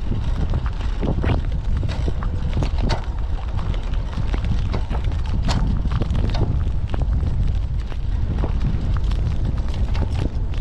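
Typhoon wind buffeting the microphone of a camera on a moving bicycle, a heavy, steady low rumble, with frequent irregular clicks and knocks throughout.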